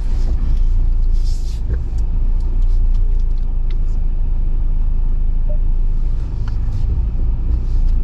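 Low, steady rumble of a Jeep Wrangler JL crawling over a rocky off-road trail, with scattered light knocks and clicks and a short hiss about a second in.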